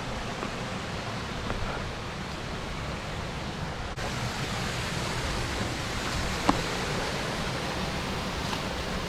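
Steady rushing of water in a mountain stream, with one sharp click a little after six seconds in.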